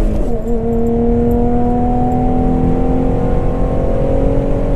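2011 Ford Mustang's 3.7-litre V6 accelerating hard. Just after the start the engine's pitch drops with an upshift, then it climbs slowly and steadily as the car accelerates in the next gear.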